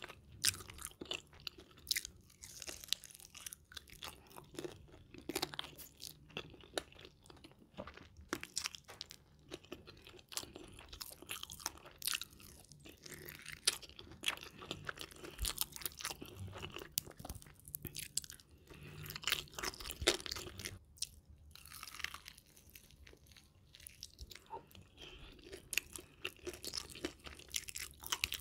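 A person biting and chewing sauce-coated fried chicken close to the microphone: irregular crisp crunches and crackles, several every second, with quieter chewing in between.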